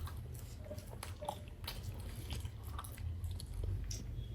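Faint chewing with small scattered mouth clicks and taps of someone eating momos, over a steady low hum.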